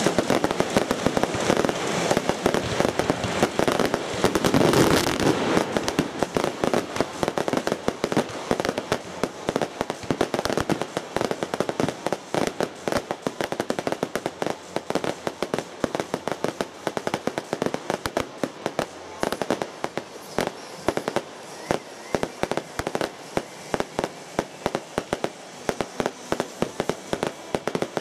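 Fireworks display: a dense, continuous barrage of bursts for about the first six seconds, then a steady run of sharp bangs and crackles, several a second.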